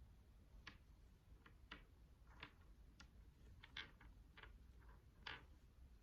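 Faint clicks of prayer beads knocking together as the string is handled, about nine irregular clicks with the loudest two near the end.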